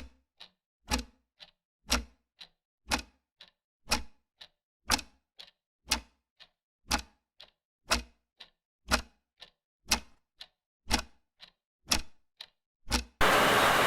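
Clock ticking steadily, two ticks a second alternating loud and soft as a tick-tock. Near the end a burst of hiss about a second long cuts in over the ticking.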